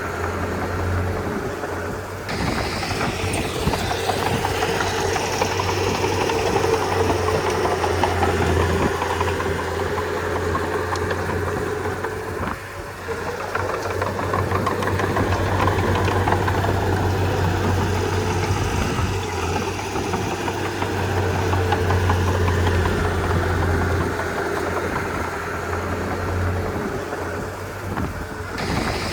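Komatsu D31P bulldozer's diesel engine running steadily under work, with a low hum. The level dips briefly about halfway through.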